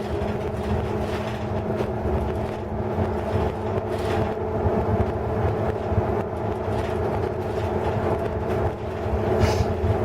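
Hino Blue Ribbon City Hybrid non-step bus driving at steady speed along a dedicated busway, heard from inside the cabin: a continuous drive drone with a steady hum and road noise, and a few short rattles, the clearest near the end.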